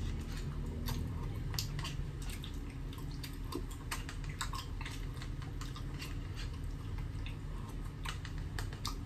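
A person chewing and biting into a crispy tuna pie close to the microphone: irregular crisp crackles and clicks over a low steady hum.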